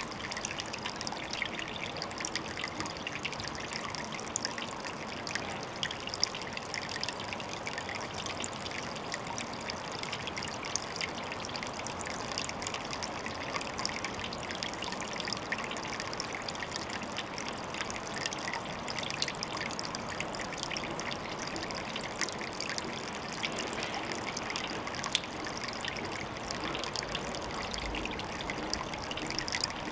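Water trickling and splashing steadily at a pond, a continuous bubbling patter with no let-up.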